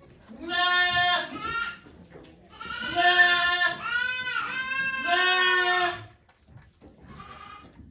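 A goat bleating loudly, about five calls in quick succession, the later ones long and wavering, followed by a fainter bleat near the end.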